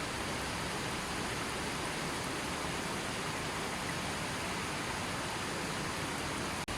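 A gentle river flowing steadily, an even rushing of water with no birds or other sounds, broken by a momentary dropout near the end.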